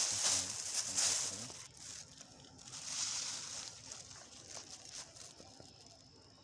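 Rustling and crinkling as old plastic is pulled out of soil and undergrowth by hand, in a few bursts: loudest in the first second and a half and again about three seconds in.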